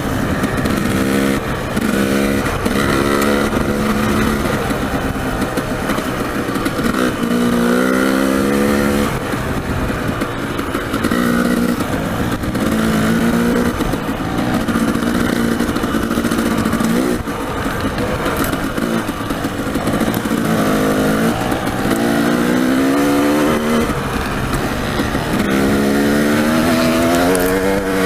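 Dirt bike engine revving up and dropping off again and again as the throttle is worked along the trail, its pitch rising with each pull, over steady wind and ground noise.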